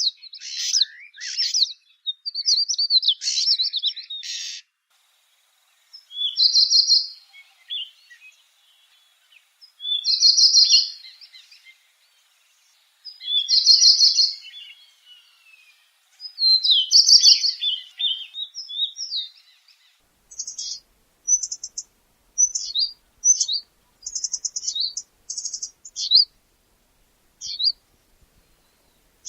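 Stonechat (Saxicola) singing. A quick run of high warbling phrases opens, then short song phrases repeat every three to four seconds. From about twenty seconds in there is a series of brief separate chirps.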